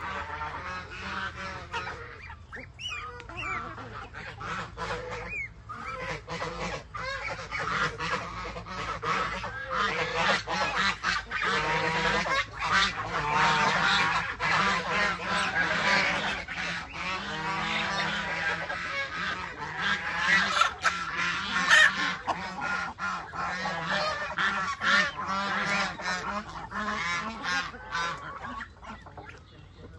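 A flock of geese honking, many calls overlapping without a break, loudest in the middle stretch.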